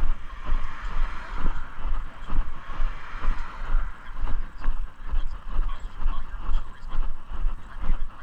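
Walking footsteps jolting the microphone, with low thuds about twice a second, over a steady rushing noise.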